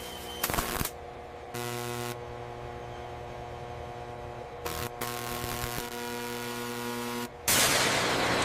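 A steady machine hum with a few short clicks, then a loud hissing noise starting near the end.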